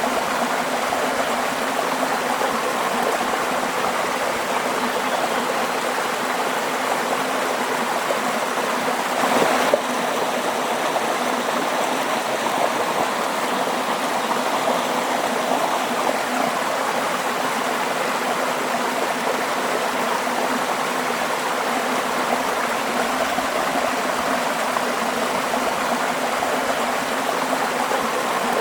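Waterfall rushing steadily in an even, continuous roar of falling water, with a brief louder swell a little past nine seconds in.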